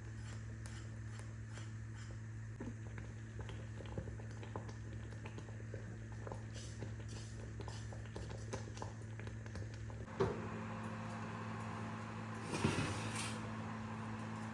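Small kitchen handling sounds: scattered light clicks and taps over a steady low appliance hum, with one sharper knock about ten seconds in and a brief scraping rustle near the end.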